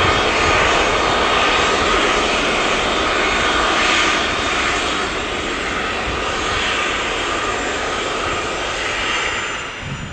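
Boeing 777's twin jet engines, a loud steady roar with a faint high whine as the airliner passes close, easing a little partway through and dropping off near the end.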